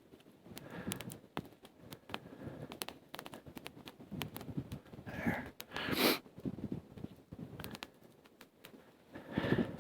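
Small campfire of twigs and birch bark crackling, with sharp irregular pops and snaps. Three louder rushes of noise come about five, six and nine and a half seconds in.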